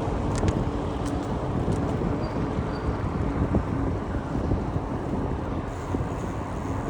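Wind buffeting the microphone of a camera on a moving bicycle: a steady low rumble. A few light clicks come in the first two seconds.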